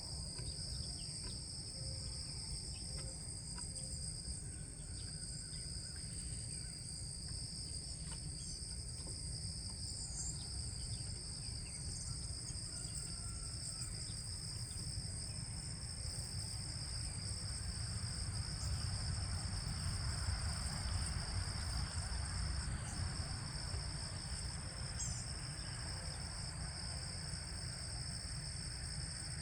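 Steady insect chorus, a continuous high trill at two pitches that does not let up, over a low rumble. A few faint, short bird chirps come through now and then.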